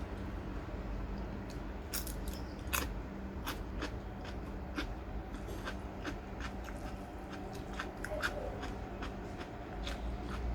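Crunchy food being bitten and chewed close to the microphone, with many irregular crisp crunches over a faint steady hum.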